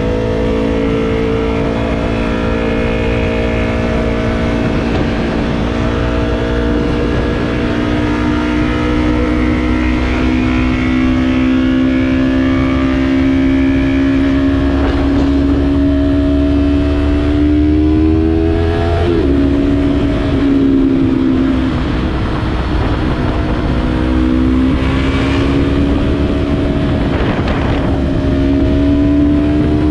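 Yamaha YZF-R3's parallel-twin engine running through a Yoshimura exhaust while riding, its pitch slowly climbing for the first two-thirds, then dropping sharply a little past halfway as the rider shifts up, and climbing again near the end. A steady low rumble of wind and road noise runs underneath.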